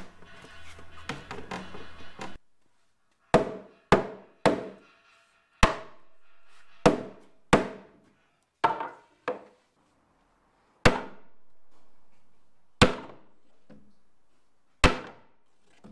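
Large wooden mallet striking a timber beam about eleven times, a second or two apart at an uneven pace, each blow ringing briefly. The blows knock the two halves of a Japanese scarf joint (okkake daisen tsugi) together.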